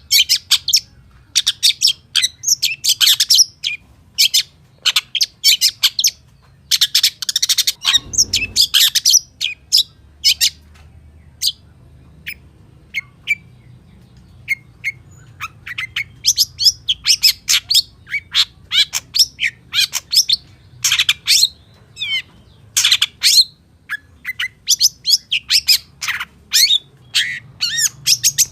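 Long-tailed shrike (pentet) singing a fast, busy run of short chirps, trills and harsh squawks, a song full of mimicked calls of other birds. A harsher, noisier burst comes about eight seconds in, and the notes thin out for a few seconds before picking up again.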